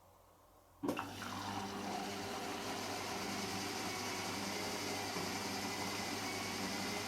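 Hotpoint WMXTF742K washing machine switching on a water stage: a sudden clunk about a second in, then a steady rush of water with a low hum.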